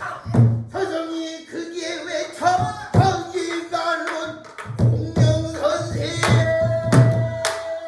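Pansori singing: a single voice bending and sustaining notes, ending on a long held note, accompanied by sharp strokes on the buk barrel drum.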